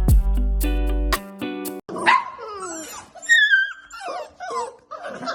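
Background music with a steady beat that cuts off about two seconds in, followed by a dog whining and yipping in a string of short, high, falling cries.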